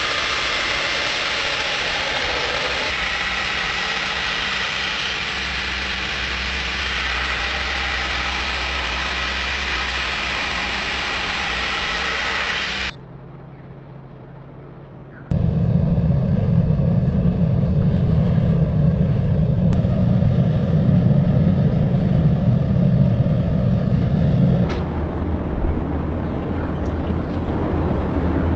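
Steady, loud machine noise from workshop equipment, in several edited stretches. The first stretch is a bright hiss, then comes a short quieter gap, then a heavy low hum for about ten seconds.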